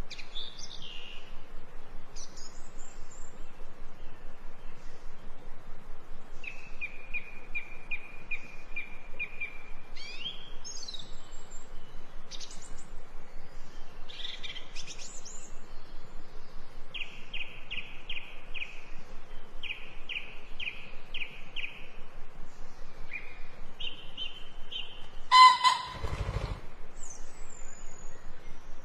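Small birds chirping and calling over steady background noise, with several runs of rapid, evenly repeated notes. About 25 seconds in, one louder, lower call comes with a brief low thump.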